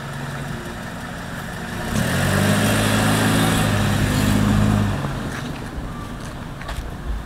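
Toyota sedan's engine idling, then revving up for about three seconds as the car pulls away from standstill, then settling back to a steadier, quieter running note as it drives off.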